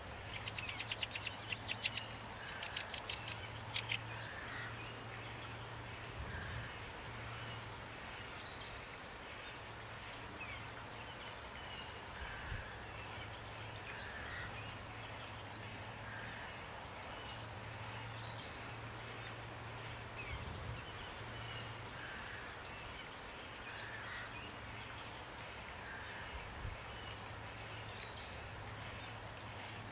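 Several birds singing, with short high chirps repeating throughout and a rapid trill in the first few seconds, over a steady hiss of rain. A faint low hum comes and goes underneath.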